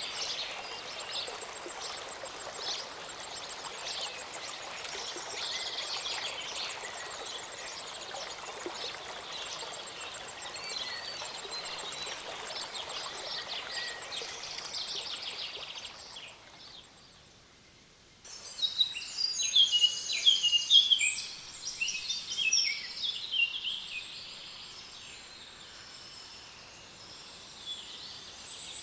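Songbirds chirping and singing over the steady rush of a small mountain stream. About two-thirds of the way through, the sound drops away for about two seconds; then several birds sing loudly for a few seconds before quieting again.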